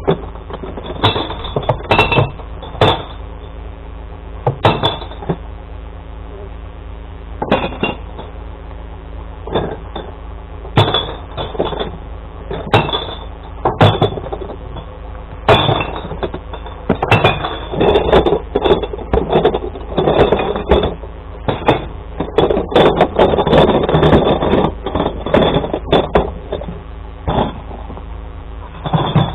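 Glass bottles and jars being tossed by hand into a glass recycling truck's compartments, smashing and clinking in many irregular crashes, thickest in the middle stretch. Underneath runs the steady hum of the truck's engine.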